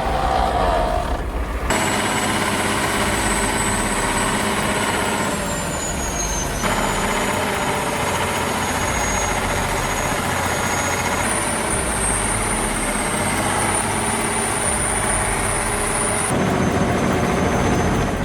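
Tractor and heavy-machinery engines running under load, heard over a series of clips that change abruptly several times. Some stretches carry a thin, high whine.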